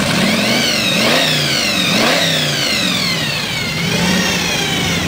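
T-bucket hot rod engine revving hard during a burnout, its pitch climbing and dropping about four times, with one long drop in the middle.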